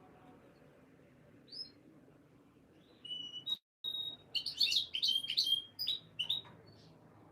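Canary singing: a single short chirp, then about halfway through a run of quick high chirps and short whistled notes lasting about three seconds, with a brief dropout in the middle, over a faint steady hiss.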